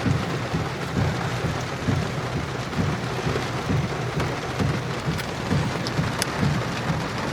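Heavy rain on the storm-chase vehicle, a steady hiss over a low, uneven rumble, with a few sharp ticks about five and six seconds in.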